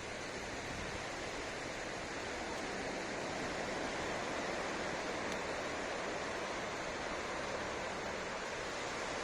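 Sea waves washing onto a beach: a steady rush of surf that swells a little a few seconds in.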